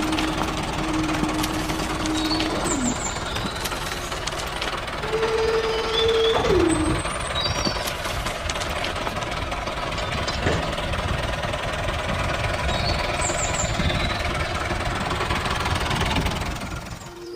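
An engine runs steadily with a rough, rattling knock. A held tone slides down in pitch about three seconds in, and a higher one does the same about six and a half seconds in.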